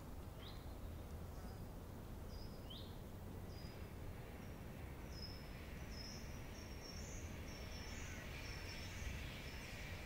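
Forest ambience with a bird calling: a series of short high notes that come faster and closer together toward the end, and two quick downward-sweeping calls in the first three seconds. Beneath them runs a steady low background noise.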